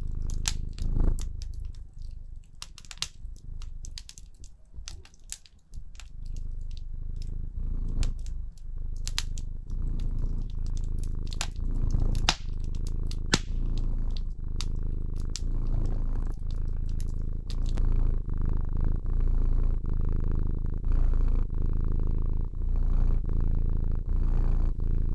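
A cat purring steadily in a low, pulsing rhythm, with a fireplace crackling in sharp pops over it; the pops grow sparse near the end.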